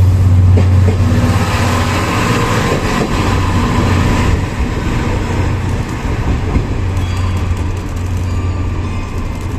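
A diesel-hauled passenger train, the 14-series coaches behind a DD51 locomotive, rolling away on departure. Wheels and coaches rumble over a steady low hum and fade slowly as the train draws off.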